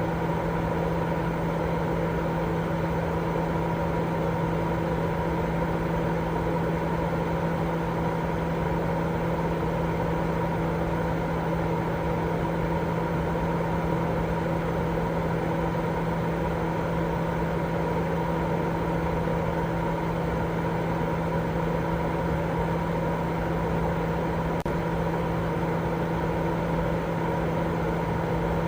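Continuous sleep white noise: an even, unchanging rushing sound, fuller in the low and middle range than a bright hiss, with a steady low hum running through it.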